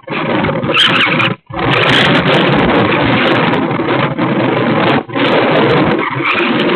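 Loud rushing wind buffeting the microphone aboard a sailing boat, cut off sharply for a moment three times.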